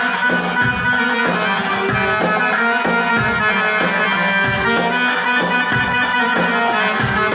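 Accordion playing an instrumental passage of an Egyptian popular tune over a steady rhythmic beat.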